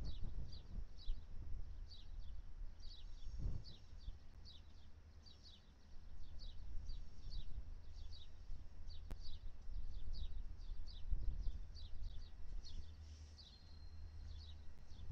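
Birds chirping over and over in short, falling chirps, two or three a second, over a steady low rumble from a slowly approaching diesel locomotive.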